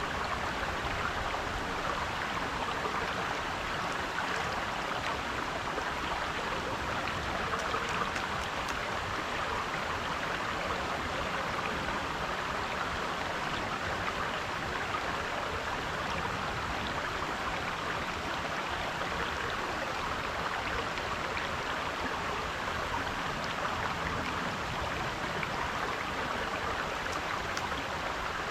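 Shallow creek water babbling steadily over rocks.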